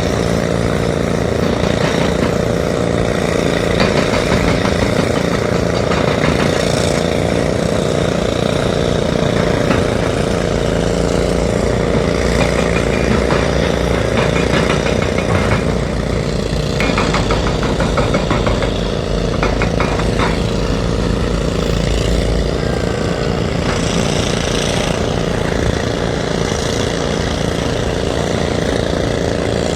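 Heavy earthmoving machine's diesel engine running steadily, with a stretch of rapid rattling clicks about two-thirds of the way in.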